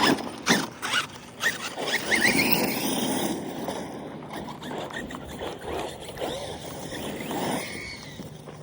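RC car running over loose ground: a few sharp knocks in the first second and a half, then tyres scraping, with a brief wavering squeal about two seconds in.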